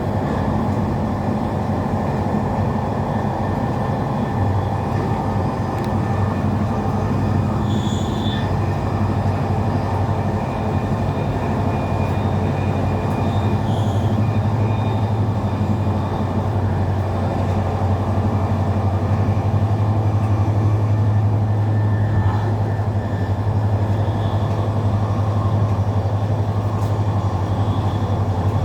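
Passenger train running, heard from inside the carriage: a steady low rumble and hum from the wheels and running gear, with faint brief high squeaks about eight seconds in and again near fourteen seconds.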